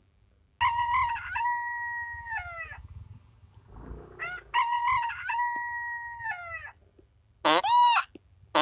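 Rooster crowing twice, each crow a long call held on one pitch and then falling off at the end. Near the end, short loud honking calls of a goose begin.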